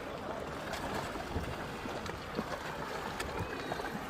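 Steady rushing noise of water and wind around a motorboat, with a few faint clicks.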